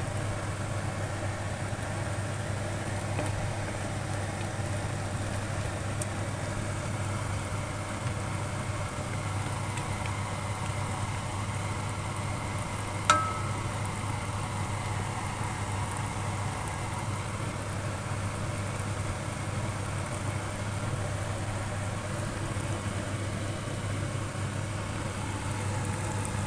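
Chicken wings sizzling and bubbling in a wok in the last of a reduced Coke sauce, over a steady low hum. A single sharp knock comes about halfway through.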